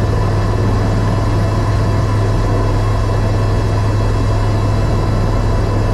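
Eurocopter EC130 helicopter in flight: its single turboshaft engine and rotors running steadily, a loud even drone with a strong low hum and several faint steady whining tones above it.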